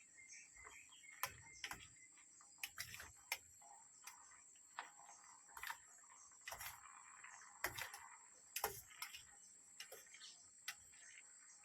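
Faint, irregular light clicks and knocks, about one or two a second, over a steady high-pitched insect drone.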